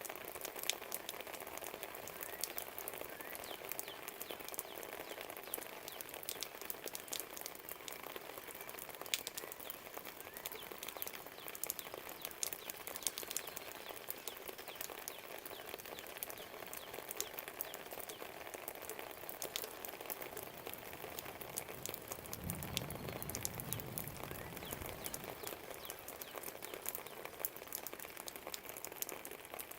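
Steady rain, a constant hiss with many small drips and taps, with faint birdsong now and then. About two thirds of the way through, a low rumble swells for roughly three seconds and fades.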